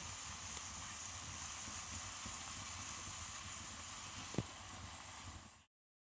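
Banana jam (doce de banana) cooking in a pan with a steady sizzle, and a single sharp click about four seconds in. The sound cuts off abruptly near the end.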